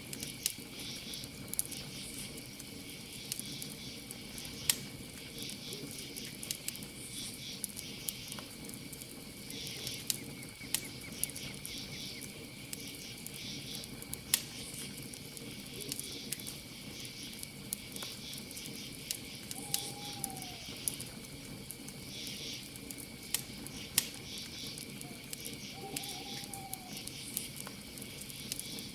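Campfire crackling with scattered sharp pops, over a steady chorus of crickets with pulsing insect chirps. A night bird gives a short call twice, about two-thirds of the way through and again near the end.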